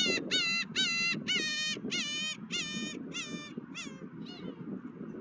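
A gull calling: a quick run of about ten loud, high, rising-then-falling squawks that fades away about four and a half seconds in, over a steady low rush of wind and surf.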